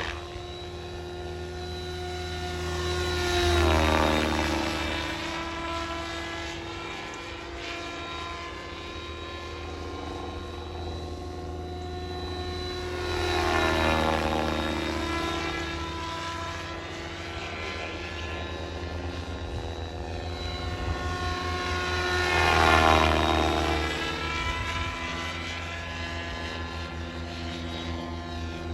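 SAB Goblin 570 electric radio-control helicopter in flight, its rotors and motor whining steadily. Three times, about 4, 14 and 23 seconds in, it swells loud and drops in pitch as it passes close by, the last pass the loudest.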